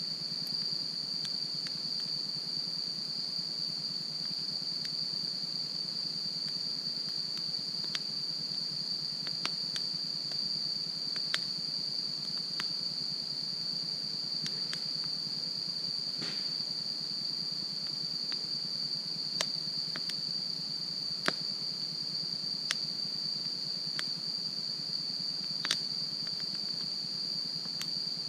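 Wood campfire crackling, with sparse, sharp, irregular pops, about a dozen in all; the loudest comes about three-quarters of the way through. Behind it, insects trill in one steady high-pitched tone.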